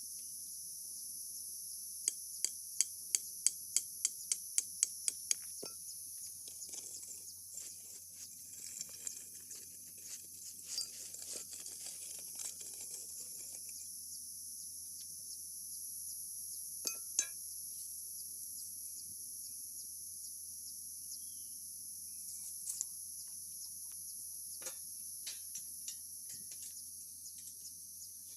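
Steady high insect trill, like crickets, throughout, with a quick run of about a dozen sharp taps a couple of seconds in, about four a second, and a few scattered single knocks later on.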